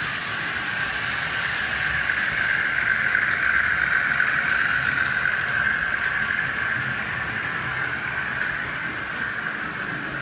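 OO gauge model train running past on the layout: a steady whirring of its motor and wheels that swells to its loudest around the middle and then fades, with faint ticks over the track.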